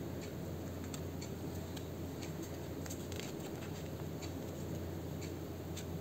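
Faint, scattered light ticks and taps of paper and card being handled and pressed at a craft table, over a steady low hum.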